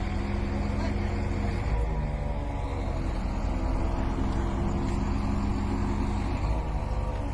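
A heavy vehicle's engine running steadily, its pitch shifting about two seconds in and again near the end.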